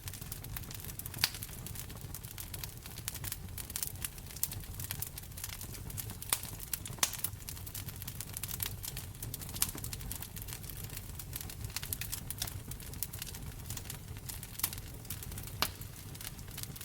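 Wood fire crackling in a fireplace: frequent small crackles with a few sharper, louder pops, over a steady low rumble of the flames.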